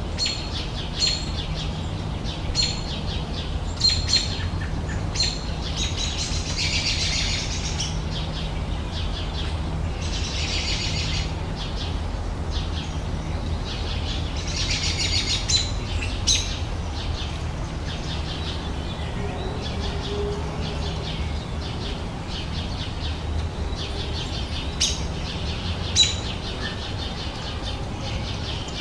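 Wild songbirds singing in a garden: sharp high chirps repeated throughout, with a trilled song phrase of about a second and a half returning three times in the first half, over a steady low background rumble.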